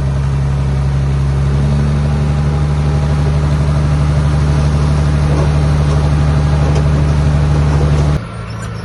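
Diesel engine of heavy earthmoving equipment running steadily at a constant low pitch, dropping abruptly to a quieter engine sound about eight seconds in.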